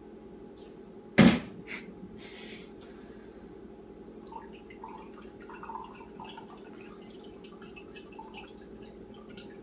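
Oranges being juiced by hand: a sharp knock about a second in, a short rustle, then soft wet squelching and dripping of juice, over a steady low hum.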